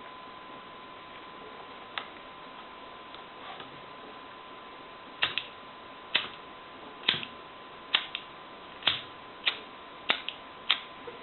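Butane lighter being clicked over and over, a sharp click about every second, in repeated attempts to ignite the butane in a paper jet engine. A faint steady high whine runs underneath.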